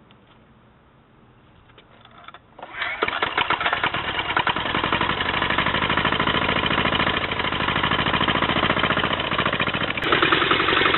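Turbocharged 406 cc air-cooled single-cylinder Yanmar-type diesel engine catching about two and a half seconds in, after a few faint clicks, then running with a rapid, steady diesel clatter. The clatter grows louder about a second before the end.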